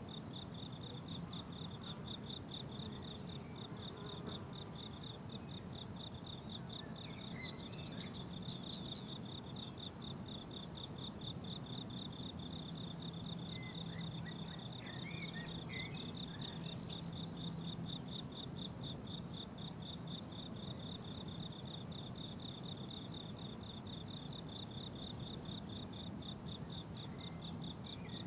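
Crickets chirping in a summer meadow: rapid, even chirps at about four a second, in runs broken by brief pauses every few seconds.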